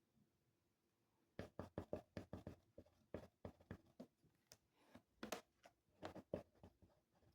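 Faint scratching of writing on paper in quick, irregular strokes, beginning about a second and a half in.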